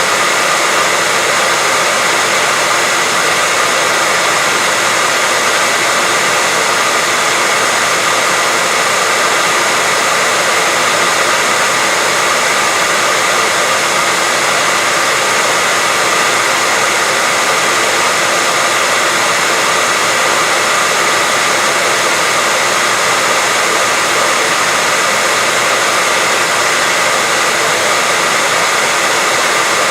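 Continuous white noise: a loud, even hiss that does not change.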